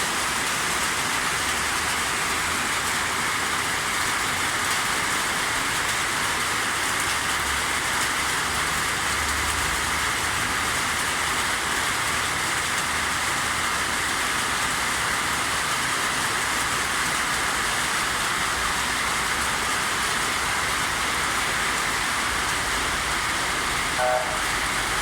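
Steady rain falling, an even hiss that holds the same level throughout. Near the end a brief pitched sound is heard once.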